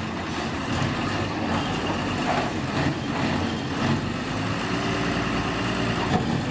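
Truck engine running steadily at low revs during a slow U-turn.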